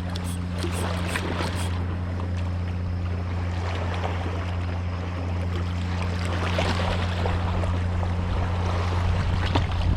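A motorboat engine running at a steady pitch, with water rushing and splashing against the hull.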